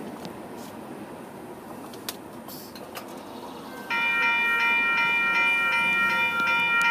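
A freight train running by, its noise fading as it moves away. About four seconds in, a loud, steady pitched tone with a pulsing beat starts abruptly and becomes the loudest sound.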